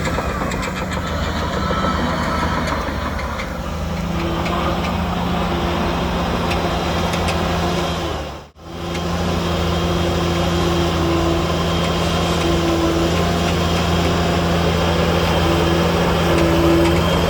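Heavy diesel engine of earthmoving machinery running steadily, with the sound dropping out briefly about halfway through.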